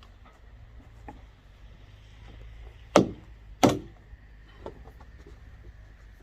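Two sharp knocks less than a second apart, about halfway through, with a few faint clicks around them over a low steady hum.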